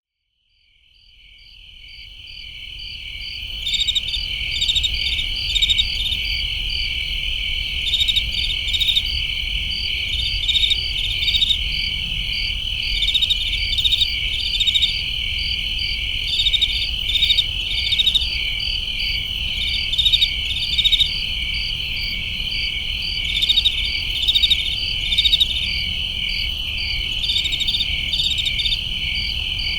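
Crickets chirping in a steady night chorus: a continuous high trill with louder pulsed chirps repeating about once a second, fading in over the first few seconds. A low rumble lies underneath.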